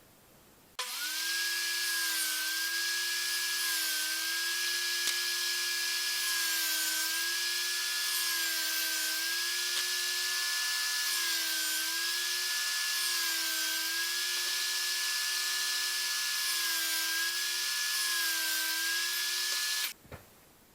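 Electric power tool working wood: a steady motor whine with hiss, its pitch sagging briefly every couple of seconds as it is loaded. It starts about a second in and cuts off sharply near the end.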